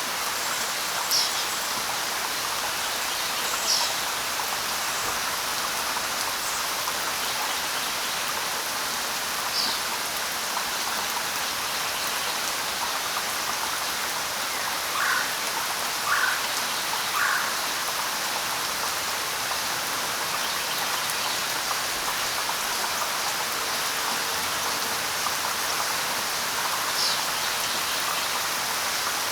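Steady light rain pattering on leaves, with a few short bird calls: single high chirps now and then and three short lower calls about a second apart a little past the middle.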